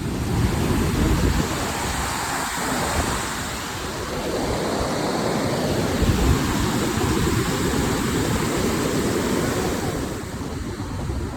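Wind buffeting the microphone while cycling: a loud, uneven rushing rumble.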